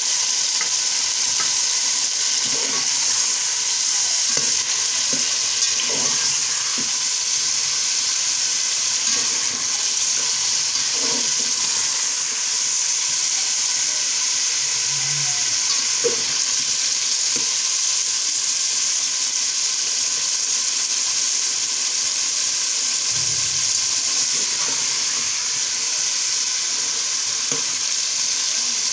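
Potatoes, boiled beef and freshly added chopped tomatoes sizzling steadily in hot oil in an aluminium pot as the masala fries, with occasional light knocks and scrapes of a stirring utensil against the pot.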